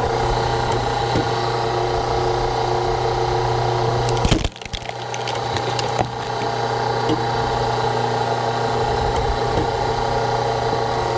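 Low-tonnage hydraulic log splitter's power unit running with a steady hum while the ram pushes into a log; about four and a half seconds in the wood gives way with a loud crack, and the hum briefly drops as the load comes off, followed by smaller cracks and clicks.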